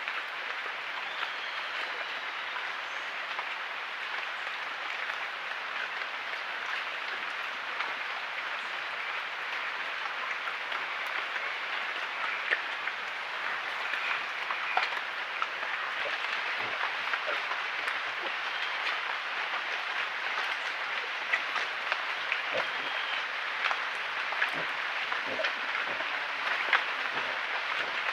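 Steady rainforest ambience: a dense hiss with many scattered small clicks and taps, growing busier in the second half, and a few faint short bird calls.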